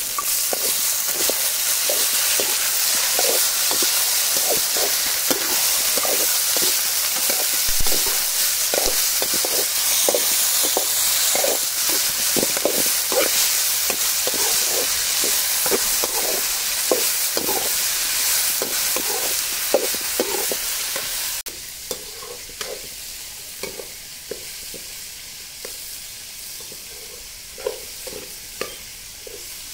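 Chopped pirandai stems and fried dals, shallots and chillies sizzling in oil in a metal kadai, with a steel ladle scraping the pan in quick repeated strokes as they are stirred. A little over two-thirds of the way through the sizzle drops off sharply, and the stirring strokes carry on more quietly.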